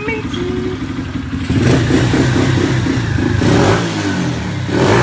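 Chinese 125cc pit bike's single-cylinder four-stroke engine running and being revved up and down, getting louder about a second and a half in. It runs cleanly through the revs on its freshly swapped carburettor.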